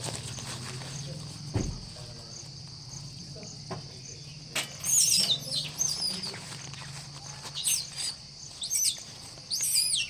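A steady high insect drone, with a bird giving repeated sharp chirps that sweep down in pitch, starting about halfway through and coming every second or so.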